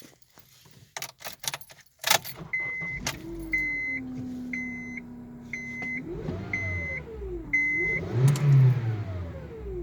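A 2010 Honda Civic starts about two seconds in after a few clicks, then runs with a whine from its newly replaced power steering pump that rises and falls in pitch twice. The whine is the power steering noise still present after the pump and high-pressure hose were replaced and the lines bled. A warning chime beeps six times, about once a second.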